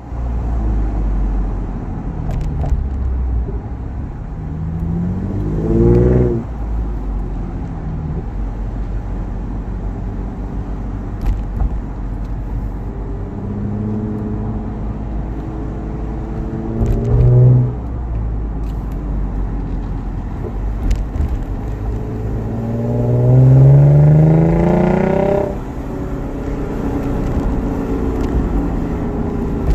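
2011 Lexus IS350's V6 running through an F-Sport axle-back exhaust with a Vibrant resonator and Flowmaster high-flow secondary cats, heard while driving. It holds a steady low drone, and the engine note rises three times under acceleration: briefly about five seconds in, more gradually midway, and longest and loudest near the end, where it drops off sharply.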